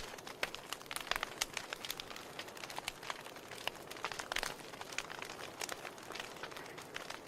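Wood fire crackling in a fireplace: irregular sharp pops and snaps of burning logs over a soft steady hiss.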